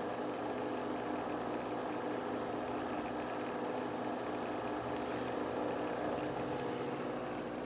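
Nespresso VertuoNext coffee machine brewing: a steady motor hum with several fixed tones as it spins the capsule and pumps coffee out into the cup.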